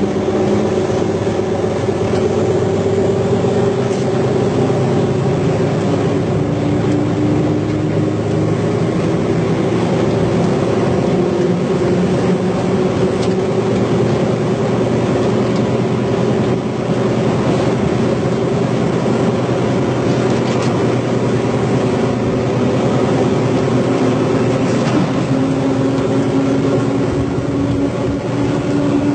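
Diesel commuter train running: a loud, steady mechanical drone whose engine tones drift slowly in pitch.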